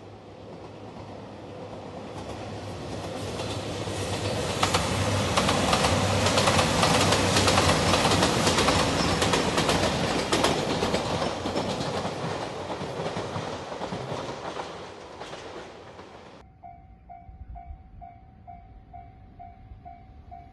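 JR Shikoku 2700-series diesel train passing close by: engine rumble and wheels clattering over rail joints build up, peak in the middle and fade. About 16 seconds in it gives way to a level crossing warning bell dinging steadily, about two strokes a second.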